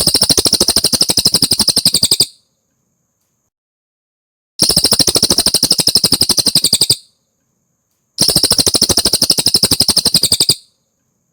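Cililin songbird recording: three rapid, buzzy trills of about two seconds each, each a fast run of evenly repeated high notes, with short silences between them.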